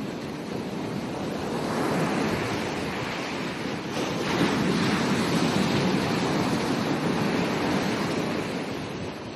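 Ocean waves breaking and washing on a beach: a steady surf rush that swells as one wave comes in about two seconds in and a bigger one from about four seconds, then eases near the end. Some wind on the microphone.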